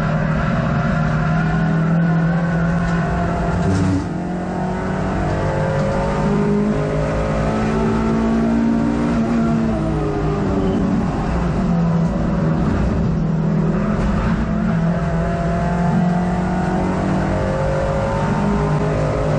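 Hot hatch race car's engine heard from inside the cabin at full racing pace, its pitch climbing and falling as the driver accelerates, lifts and changes gear. There is a short dip in loudness about four seconds in, where the driver lifts off.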